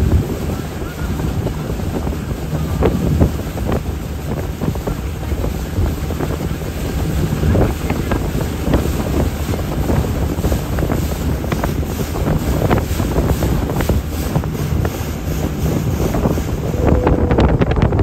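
Jet boat under way: its engine hums low and steady while wind buffets the microphone and water rushes past the hull.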